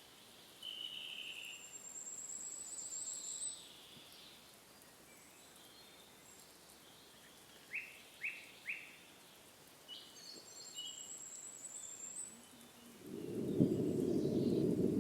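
Wild birds calling in a forest: a high trill twice, a shorter call near the start and three quick chirps in the middle. About two seconds before the end, a louder low rushing noise sets in.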